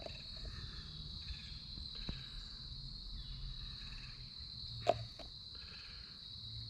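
A steady chorus of crickets chirring, with one short click about five seconds in.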